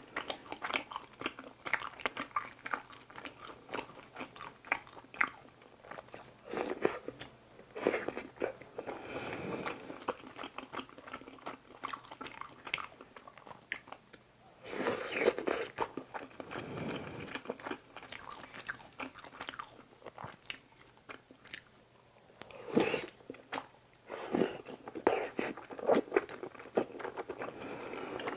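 Close-miked chewing and biting of tteokbokki in spicy sauce: wet, sticky mouth sounds and small clicks at irregular intervals, with a few louder, longer mouthfuls.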